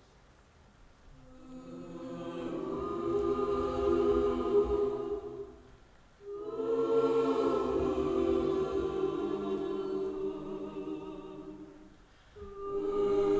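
Choir singing long, held chords in swelling phrases. The first phrase builds and fades out about five seconds in, a second enters sharply about six seconds in and fades near the end, and a third begins just before the end.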